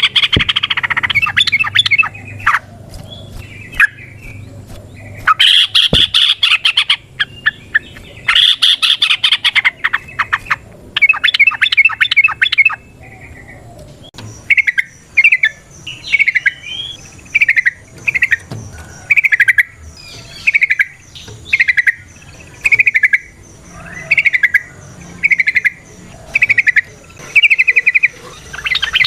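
Yellow-vented bulbul singing: loud bursts of rapid, bubbling chatter (the long 'ropel' song) for the first half, then a steady run of short clipped notes about one a second.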